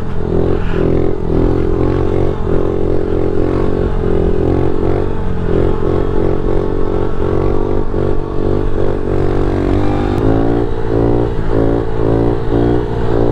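Honda CRF110 pitbike's small single-cylinder four-stroke engine running under throttle while riding, its pitch rising and falling as the throttle changes. In the last few seconds it revs up and back down in quick repeated sweeps.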